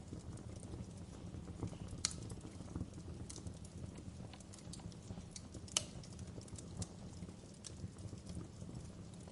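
Wood fire crackling in a fireplace: scattered sharp pops and snaps over a low, steady rumble, with two louder snaps about two seconds in and near six seconds.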